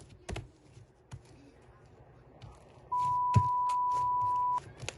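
A steady electronic beep at a single pitch, held for about a second and a half just past the middle, like a censor bleep, over scattered soft clicks.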